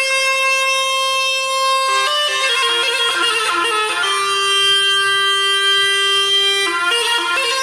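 Bagpipe music: long held notes, with a faster run of changing notes in the middle.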